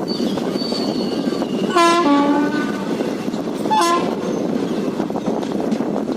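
Indian Railways train horn sounding two blasts: a longer one about two seconds in that steps down in pitch partway, then a short toot about two seconds later. Under it runs the steady rumble of the moving train.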